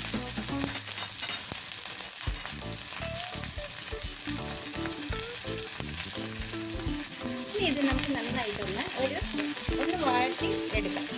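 Sliced onions, curry leaves and green chillies sizzling in hot oil in a steel kadai, with a steel spatula scraping and stirring them in the last few seconds.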